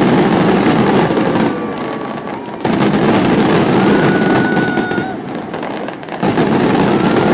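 Aerial fireworks bursting in a dense, continuous barrage of crackles and bangs, surging suddenly louder about a third of the way in and again near the end, with a few thin whistling tones over the din.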